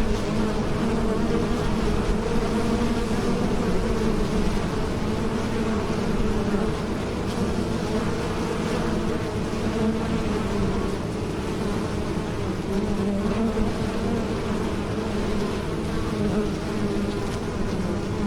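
Bees buzzing in flight, a steady, dense drone of many wingbeats that wavers a little in pitch.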